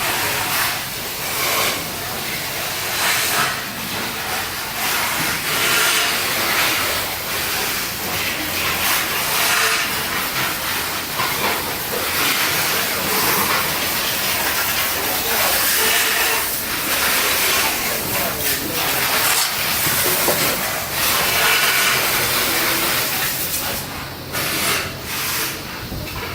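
Loud, steady hissing noise with uneven rises and falls, like a busy production floor; it drops away near the end.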